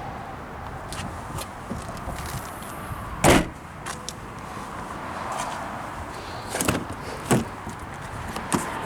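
Car rear seatbacks being released and folded down: one heavy thud about three seconds in, then two smaller knocks and light clicks of the latches and handles.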